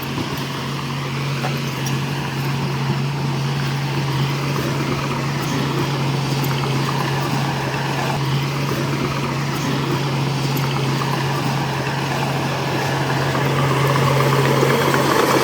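Heavy diesel engine running steadily with a low, even drone, getting a little louder near the end.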